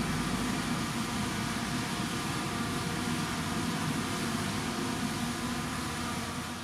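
Heavy diesel engine of earthmoving machinery running steadily, fading out at the very end.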